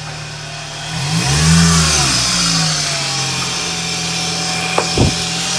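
Toyota Celica GT-S's 2ZZ-GE four-cylinder engine running, revving up once about a second in and dropping back, then holding a steady note with a hiss over it. Two sharp clicks near the end.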